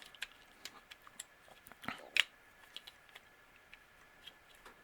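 Faint, scattered clicks and taps of a hard plastic Transformers Overload figure being handled as a peg is worked into its hole, with a sharper pair of clicks about two seconds in.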